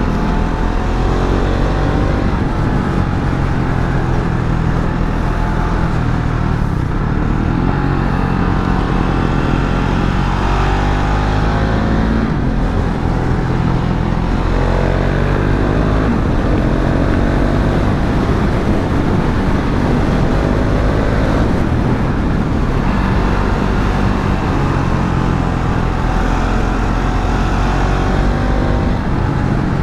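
KTM Duke 690 single-cylinder engine under way on a road, its revs repeatedly rising and falling as the rider accelerates, shifts and eases off.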